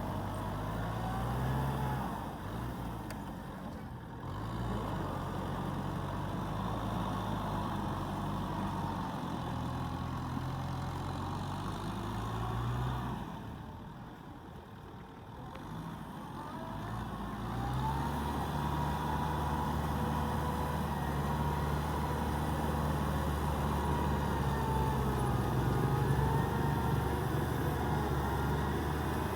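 Kubota tractor's diesel engine running steadily with a thin whine above it. It eases off for a few seconds about halfway through, then picks back up and holds a steady pitch.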